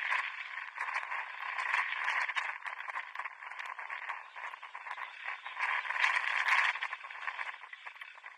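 Pitch-side ambience of a 7-a-side football match: a rough, steady noise full of small clicks and knocks, with no clear voices, heard through a thin-sounding microphone.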